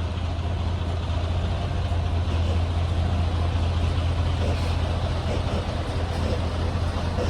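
Semi-truck's diesel engine running steadily at low revs, a constant low hum.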